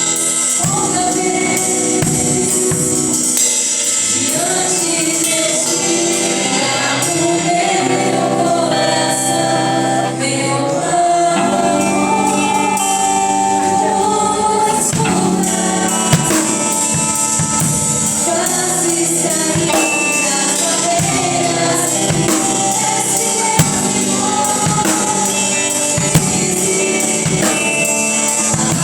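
Gospel worship music: group singing over a band with drums and tambourine.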